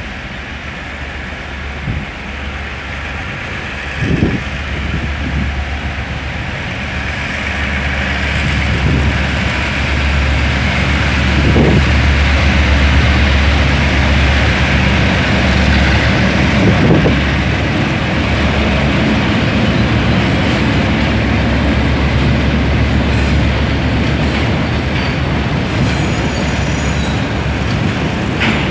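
A freight train passing: the locomotive's steady low drone grows louder over the first ten seconds or so, then the hopper wagons roll by with a continuous rumble and a few knocks.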